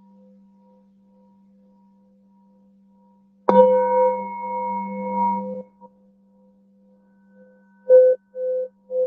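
Singing bowl ringing with a steady hum and a slowly wavering overtone, then struck about three and a half seconds in, ringing loudly for about two seconds before cutting off abruptly. Three short, loud tones follow near the end.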